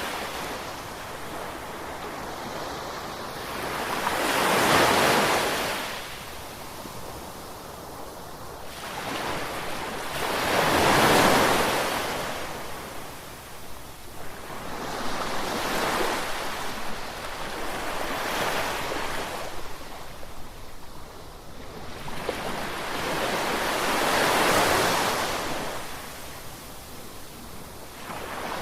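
Ocean waves breaking on the shore, rising and falling in slow surges about every five to eight seconds, with a steady wash between.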